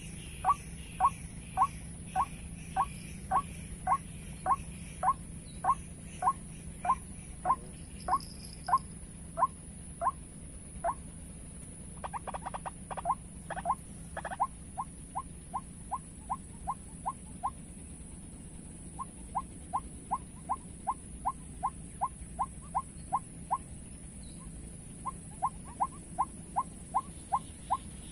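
White-breasted waterhen calls: a monotonous series of short, sharp notes at about two a second, pausing briefly twice and breaking into a quicker, jumbled burst about twelve seconds in.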